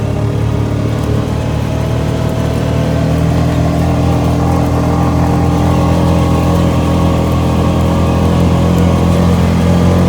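ATV engine running steadily while under way, growing slightly louder a few seconds in.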